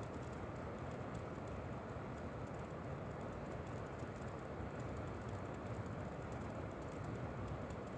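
Steady wind noise, a low even rush with faint light ticks running through it.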